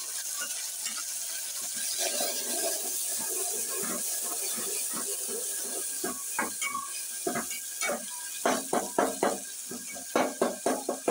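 Chopped tomatoes sizzling in hot oil with fried onions in a steel pot, a steady hiss. From about halfway a metal spatula scrapes and knocks against the pot in quick runs of strokes as the mixture is stirred.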